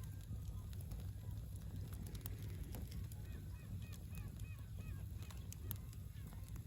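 Campfire crackling with sharp pops over a low steady rumble. About three seconds in, a run of short calls from birds comes in quick succession, several a second.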